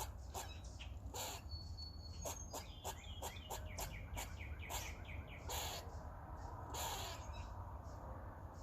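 Squirrel calling and chewing: a run of sharp clicks and short high chirps, then two longer rasping bursts about five and a half and seven seconds in.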